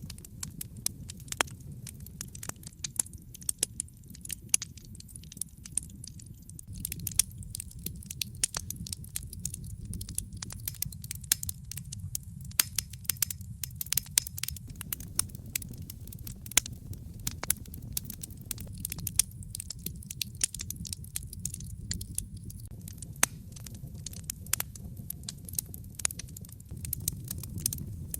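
Fireplace fire crackling: dense, irregular sharp pops and snaps over a low steady rumble of the flames.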